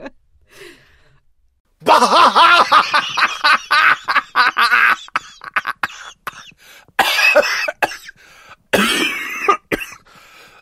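A person laughing hard and coughing: one long loud burst starting about two seconds in, then shorter bursts near the end.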